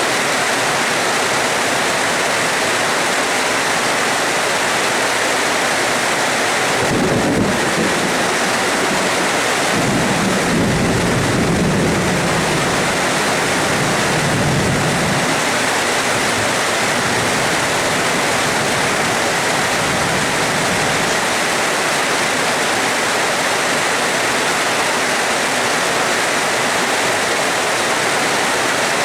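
Steady heavy rain hissing, with a sudden clap of thunder about a quarter of the way in and low rolling thunder rumbling on for several seconds before dying away past the middle.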